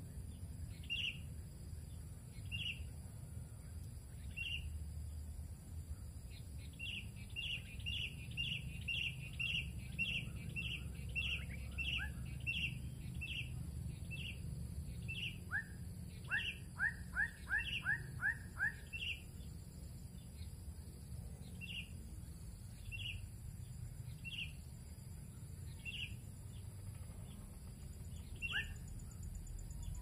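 Small birds calling: a short chirp repeated about once a second, coming about twice a second for a stretch early on. Runs of quick rising whistled notes come twice, the longer run a few seconds past the middle, over a steady low rumble.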